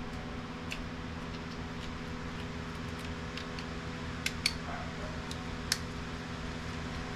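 A few faint, scattered clicks and taps of small printer parts being handled during disassembly, the two loudest about four and a half and almost six seconds in, over a steady low hum.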